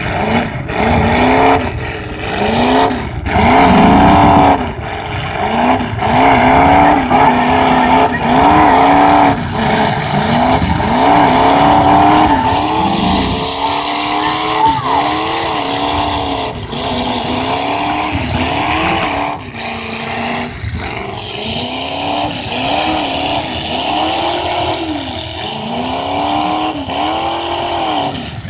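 Demolition derby cars' engines revving hard again and again, each rev rising and falling in pitch, with a few sharp bangs of cars hitting each other in the first few seconds.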